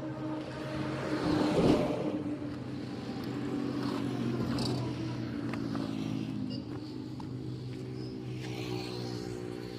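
A motor vehicle's engine running steadily, swelling to its loudest about a second and a half in, with its pitch rising near the end.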